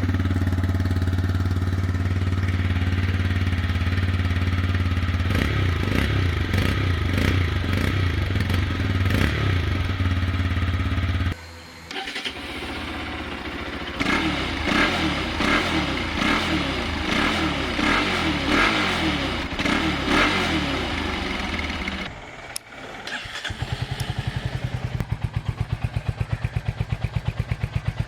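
Single-cylinder motorcycle exhausts heard one after another. The first idles, then is blipped several times; after a short break a second is revved up and down repeatedly; near the end a third idles with an even, pulsing beat.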